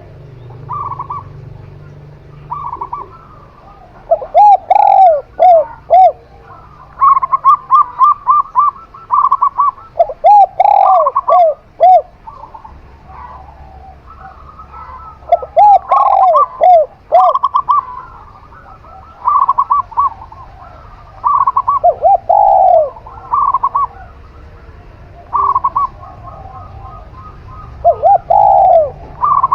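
Zebra dove and spotted dove cooing in turns. Groups of four or five lower, arching coos recur every few seconds, and runs of short, quicker, higher notes fall between them.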